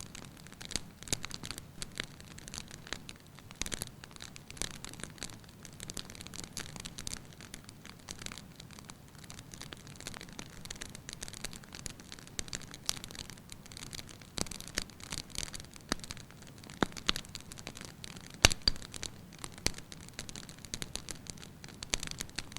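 Firewood burning in a fireplace, crackling with frequent small pops and snaps over a soft steady hiss. A sharper, louder snap comes about three-quarters of the way through.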